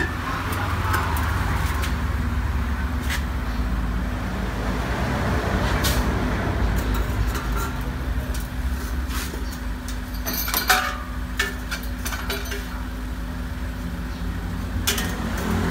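Honda Accord G7's K24A four-cylinder engine idling steadily, with a few metallic clinks and knocks as a stainless steel muffler is handled and offered up to the exhaust pipe; the loudest knocks come about ten and a half seconds in.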